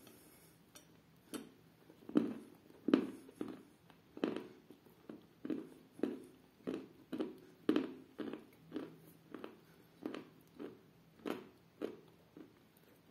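Close-up chewing of a mouthful of chalk and clay soaked in milk, mouth closed: short, soft, wet chews repeating at about two a second.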